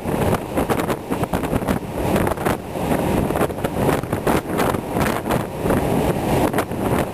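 Wind buffeting the microphone on a ferry deck in a stiff breeze: a loud, rumbling rush that gusts up and down without pause.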